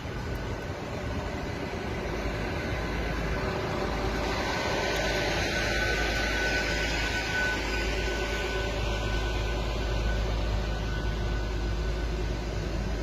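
A train running past, a steady rumble and hiss that swells about four seconds in, with a faint steady whine over it.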